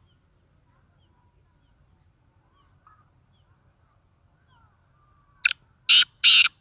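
Black francolin calling: a short note about five seconds in, then two loud, harsh, grating notes that begin its call. Faint small-bird chirps sound before it.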